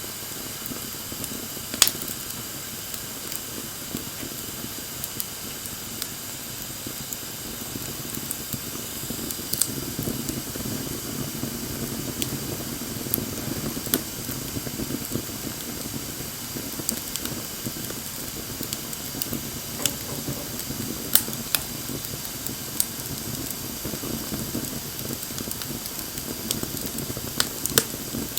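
Wood bonfire burning: a steady hiss and low rush of flames, with occasional sharp pops and crackles from the burning wood. The rush of the flames grows a little stronger about a third of the way in.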